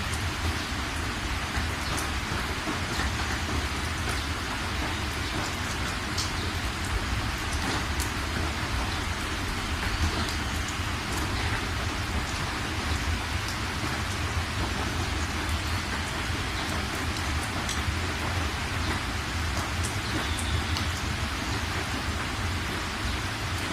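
Steady rain falling, an even hiss with scattered sharp drop ticks and a steady low rumble underneath.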